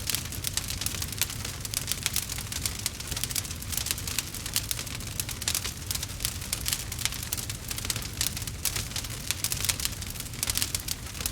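Wood bonfire crackling, with many quick irregular pops and snaps over a steady low rumble.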